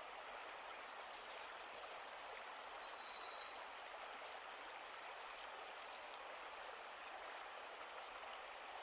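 Songbirds singing short, high, trilled phrases over a steady rush of running water, with a few bursts of song about a second in, around three seconds and again near the end.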